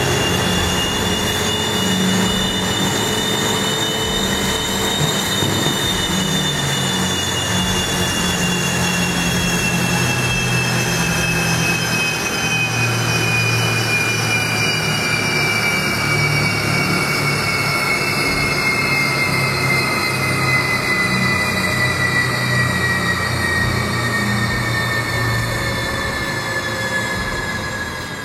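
Car running on a chassis dynamometer: a high whine from the spinning rollers and drivetrain, rising slightly at first and then falling slowly as it spins down, over a steady low hum.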